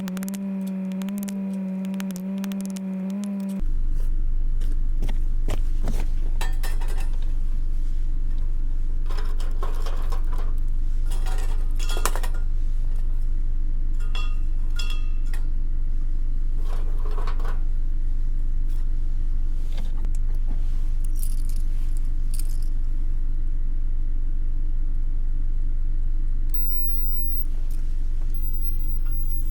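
A loud, steady low buzzing hum cuts in suddenly about three and a half seconds in and runs on, after a few seconds of a held tone. Scattered metallic clinks and scrapes of camping gear being handled sound over the hum.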